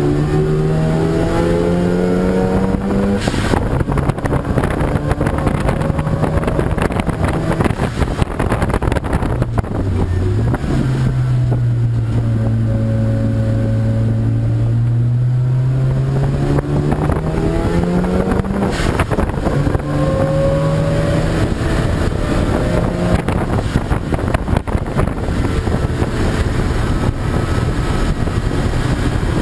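Race car engine under hard acceleration. The engine note climbs and falls sharply at gear changes, about three seconds in and again near nineteen seconds. Around ten seconds in the note dips briefly, then climbs slowly again, all over a steady rush of wind and road noise.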